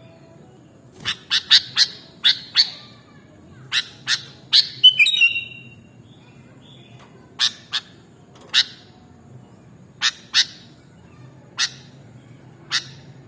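Sooty-headed bulbul (kutilang) giving a series of short, sharp chip calls at irregular intervals, with a brief warbled phrase about five seconds in.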